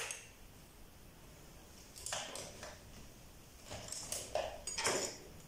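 Quiet room with a few faint clatters and rustles, about two seconds in and again near the end, as small objects are handled.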